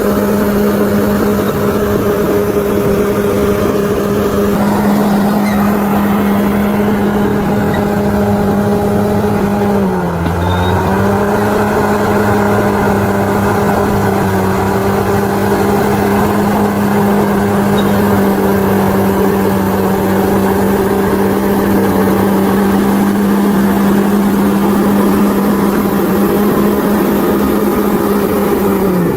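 Bulldozer's diesel engine running steadily at high revs, its pitch dipping briefly about ten seconds in and then recovering.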